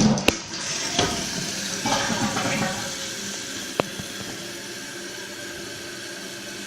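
Kohler Wellworth toilet flushing with its tank open: a click as it starts, water rushing out of the tank for a few seconds, then a steadier, quieter hiss as the fill valve refills the tank. A single sharp click sounds about four seconds in.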